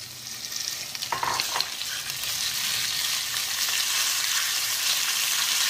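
Sliced beef sizzling in a hot non-stick frying pan with chopped onion, stirred and spread out with a wooden spatula; the sizzle grows steadily louder as the meat spreads across the pan, with a few short spatula scrapes about a second in.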